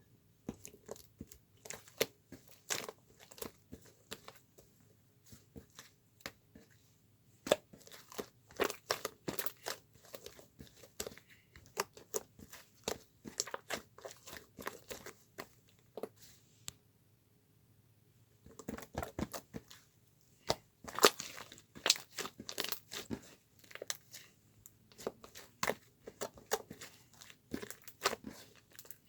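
Close, irregular crackling and crinkling, with a pause of about a second and a half a little past halfway.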